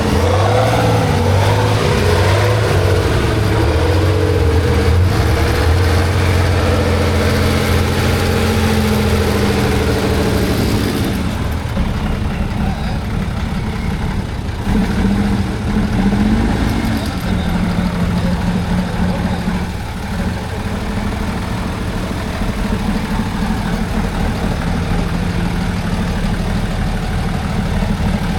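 Heavy off-road trial truck engine revving, its pitch rising and falling, for about the first ten seconds. It then settles into a steadier, lower running note near idle.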